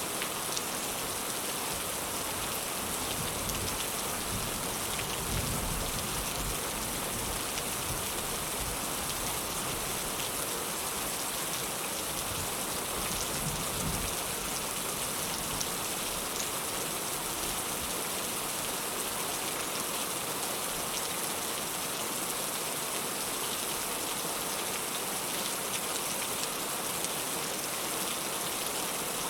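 Heavy rain falling steadily, an even hiss with scattered drop impacts. There are two brief low rumbles, about five and fourteen seconds in.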